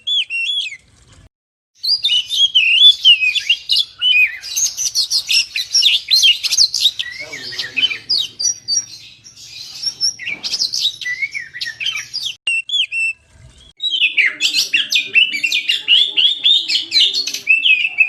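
Oriental magpie-robin (kacer) in full song: a fast, varied run of whistles, trills and chattering notes, with short pauses about a second in and again about thirteen seconds in.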